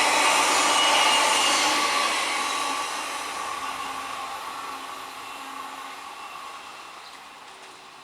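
Indian Railways EMU local train running on past, its steady motor whine and wheel rolling noise fading away into the distance.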